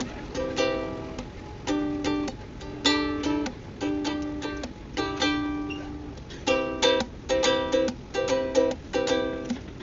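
Ukulele played solo, strumming chords in a steady rhythm with a few notes left to ring.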